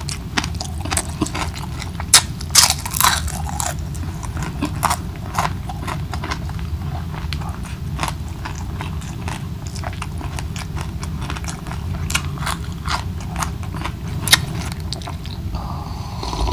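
Close-miked chewing and biting of fried milkfish and rice eaten by hand: irregular crisp crunches and wet mouth clicks at an uneven pace, the loudest a few seconds in. Near the end, a sip from a glass jar.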